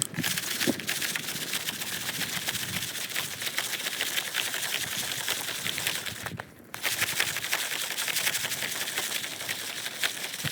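Popcorn kernels popping in a foil shaker pan over a campfire: a dense, rapid run of sharp clicks that stops for a moment about six seconds in, then starts again.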